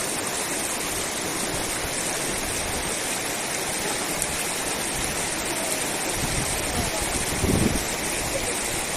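Rushing river water: a steady, even hiss, with a brief louder low rumble about seven and a half seconds in.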